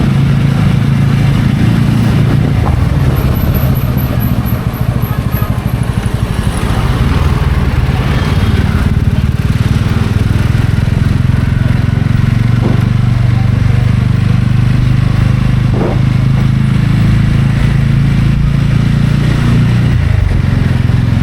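TVS Ronin's single-cylinder engine running steadily under way. The engine note shifts briefly near the end.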